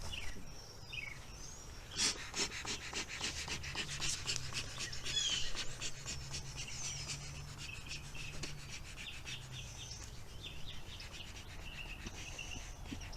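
Small birds chirping on and off, over a stretch of rapid rustling and clicking from handling starting about two seconds in.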